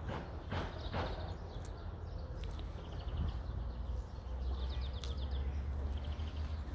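Small birds chirping in short, rapid high trills several times, over a steady low rumble.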